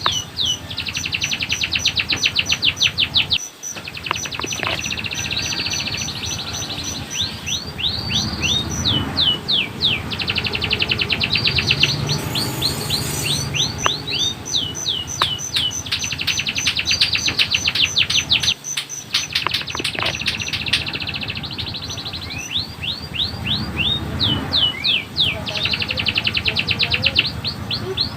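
Canary singing a long song made of rapid trills: fast runs of one repeated note that switch to a different repeated note every few seconds, with brief pauses about three and a half seconds in and again near nineteen seconds.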